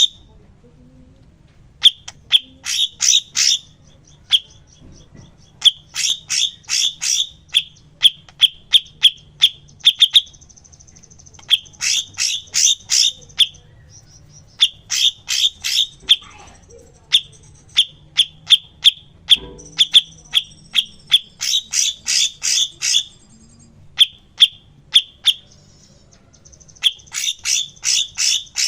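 A cucak cungkok songbird singing, used as a masteran training song. It gives quick runs of sharp, repeated chirps, each phrase lasting one to two seconds and coming every few seconds, with a thin high trill between the phrases.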